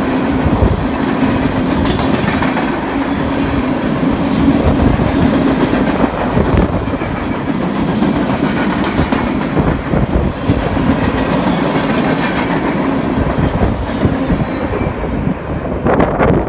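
A BNSF freight train rolling past close by: a steady rumble of steel wheels on rail, with repeated clicks and clacks as the wheels cross rail joints.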